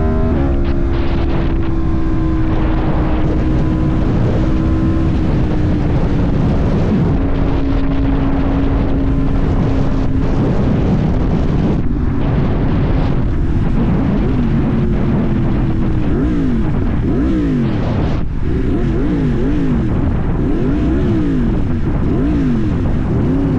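Yamaha MT-10's crossplane inline-four engine running under way, with wind rushing over the microphone. The engine note holds steady for the first half, then rises and falls again and again in quick swings of the revs.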